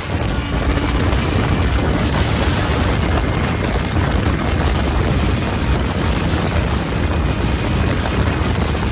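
Motorcycle running at speed: a loud, steady, dense engine and wind noise, heaviest in the low rumble, with no let-up.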